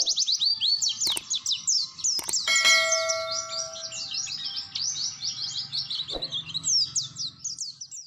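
Bird chirping in a rapid, unbroken string of quick high notes that sweep downward, with a bell-like chime ringing briefly about two and a half seconds in and a few sharp clicks; the sound cuts off abruptly at the end.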